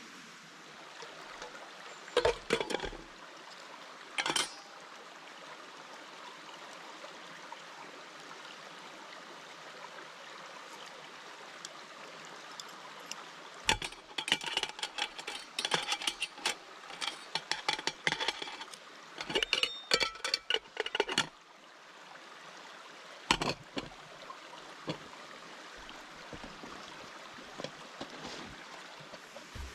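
Steady background hiss with scattered groups of sharp clinks and knocks, a dense run of them in the middle, like gear being handled.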